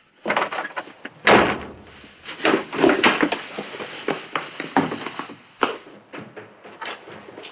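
Irregular knocking and banging on wood: many sharp hits in quick, uneven succession, the loudest about a second in.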